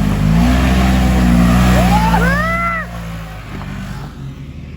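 Off-road 4x4 engine revving hard under load, its pitch wavering, then easing off about three seconds in. Around two seconds in, a short rising-and-falling whoop sounds over it.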